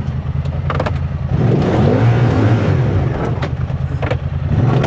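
Side-by-side UTV engine running under load in low gear, picking up revs about a second and a half in, with a few sharp knocks over it.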